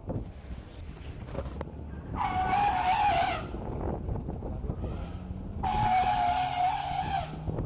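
Asian elephant trumpeting twice during a charge: two long, steady, rough blasts, each dropping in pitch as it ends. Under the second blast a vehicle engine revs, its pitch slowly rising.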